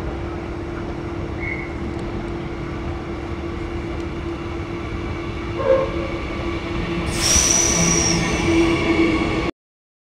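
Brisbane electric suburban trains running at a station platform: a steady rumble with a constant hum. About seven seconds in, a high-pitched squeal with hiss comes from the train pulling in and lasts about two seconds. The sound cuts off suddenly near the end.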